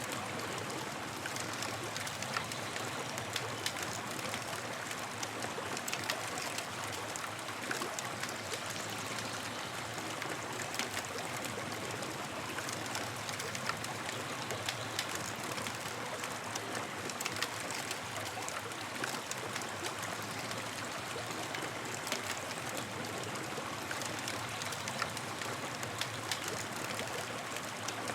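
Campfire crackling: frequent small sharp pops and snaps over a steady hiss.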